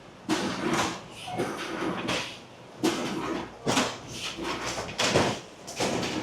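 Potato packing line running, with potatoes tumbling and clattering along the conveyors in irregular bangs and rattles.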